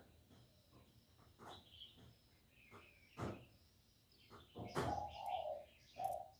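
Spotted dove cooing once, low and short, about five seconds in, among several sharp knocks, with faint high chirping throughout.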